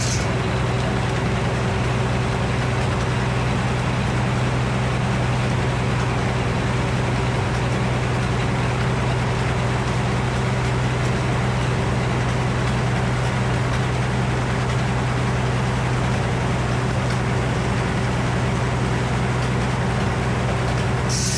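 An engine running steadily at a constant speed, a low, even hum that holds the same pitch throughout.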